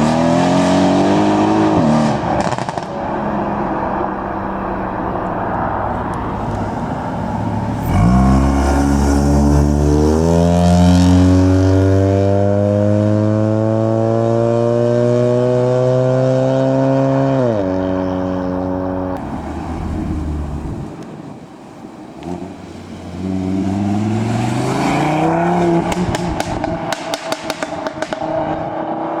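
Tuned car engines accelerating hard away in turn. The longest pull climbs steadily in pitch for about ten seconds before cutting off sharply; later another engine revs up, followed by a rapid run of crackles near the end.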